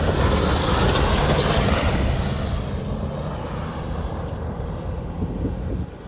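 Mitsubishi Pajero race truck driving on the hill-climb course: a steady rushing vehicle noise that fades after a few seconds and drops away just before the end.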